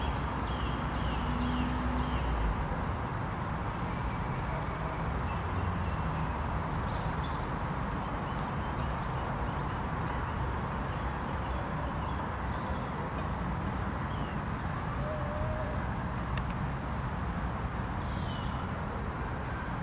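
Outdoor park ambience: scattered bird chirps and short trills, densest in the first couple of seconds, over a steady background hum of noise.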